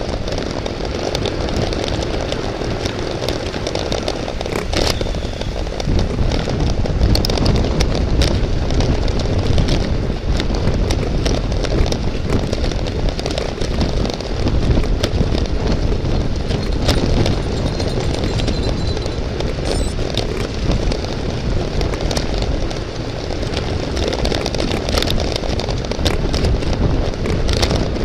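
Steady wind rush and road noise on the microphone of a camera riding along in a bicycle race, with scattered sharp clicks and rattles.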